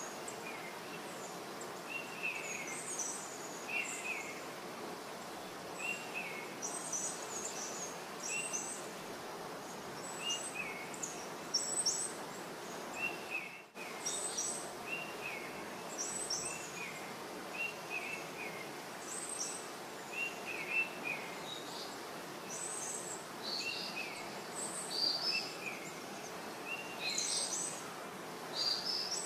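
Small birds chirping over and over, short high chirps about once a second, over a steady background hiss.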